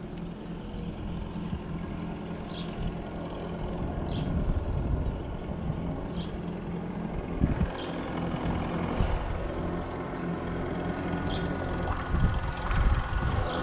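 UTB Universal 650 tractor's four-cylinder diesel engine running steadily, with small rises and falls in speed. A short high squeak recurs every second or two.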